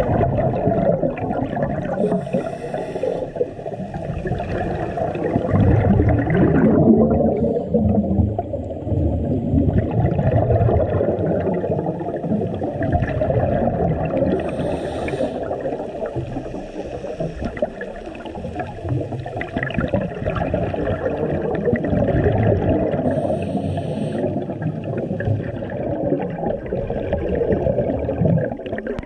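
A scuba diver breathing through a regulator underwater: a steady rumble of exhaled bubbles, broken by a short hiss of inhalation about every nine seconds.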